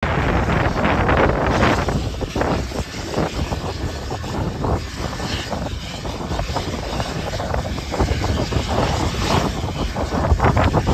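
Strong gusty wind buffeting the microphone: a loud, uneven rumble that surges and eases in gusts.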